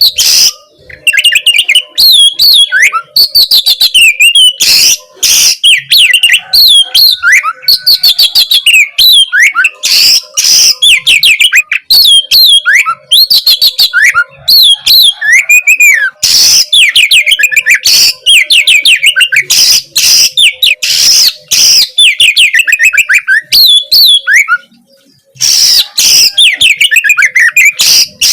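Oriental magpie-robin (kacer) singing a loud, continuous, varied song of rapid whistled sweeps, trills and harsh rasping notes, with one brief pause near the end.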